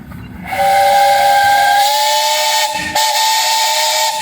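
Steam whistle on a 1917 Advance-Rumely Universal steam traction engine blowing a long two-note blast with hissing steam. The blast starts about half a second in and breaks off briefly about three seconds in before sounding again.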